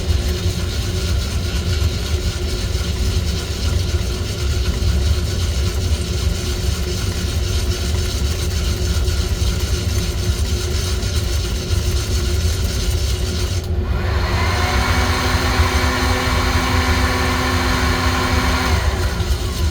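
Steady whir of a motor-driven fan or blower from coffee-roasting equipment. A second motor tone comes on about fifteen seconds in, holds steady, and winds down near the end.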